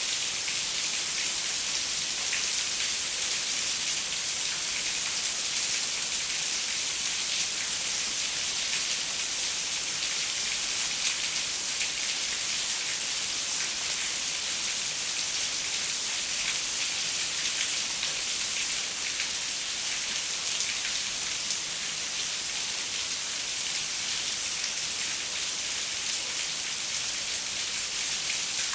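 Steady rain, a dense even hiss with countless fine drops pattering on a window pane.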